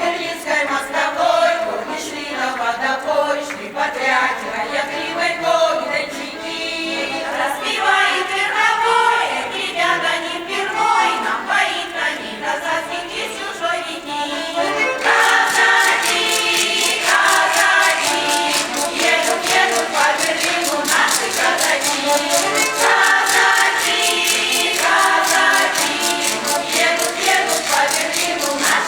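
Music: a choir singing with accompaniment, growing fuller and louder about halfway through.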